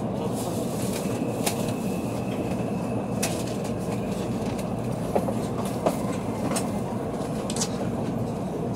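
Running noise heard inside a Tokaido Shinkansen car as it pulls into a station: a steady low rumble with scattered clicks of the wheels over rail joints and points, and a faint thin high squeal for a couple of seconds about a second in.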